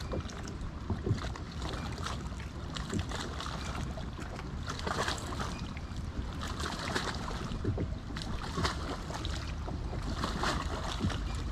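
Water lapping around a kayak, with steady wind rumble on the microphone and scattered light knocks and splashes.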